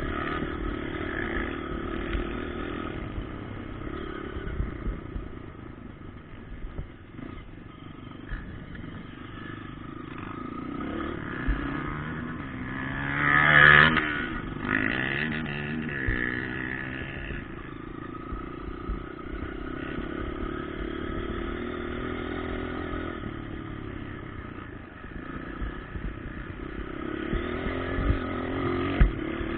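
Motocross bikes running around a dirt track, engines rising and falling. One bike passes close about halfway through, the loudest moment.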